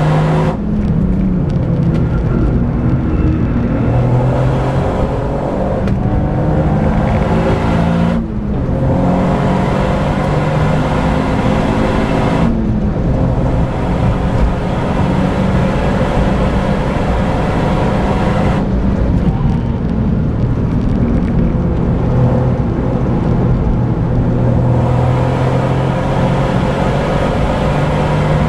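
Toyota GR Yaris's turbocharged 1.6-litre three-cylinder engine pulling hard at speed, heard inside the cabin with tyre and road noise. The engine note rises and falls continuously and eases off briefly about five times between stretches of hard acceleration.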